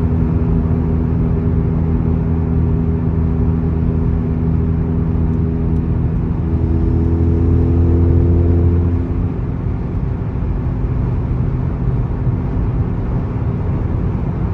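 Exhaust drone in the cabin of a Volkswagen cruising on the highway with a TCR muffler and downpipe: a steady low hum with a few steady tones above it. About nine seconds in the drone drops away, leaving road noise.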